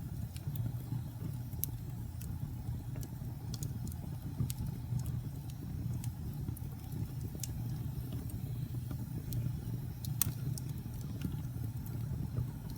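Wood fire in a fireplace crackling: scattered sharp pops and snaps over a steady low rumble, with one louder pop about ten seconds in.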